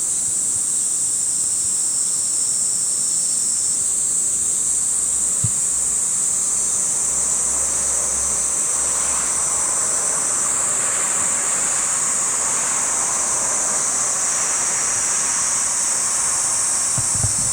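A steady, high-pitched insect drone. A softer rushing noise swells about halfway through and fades near the end.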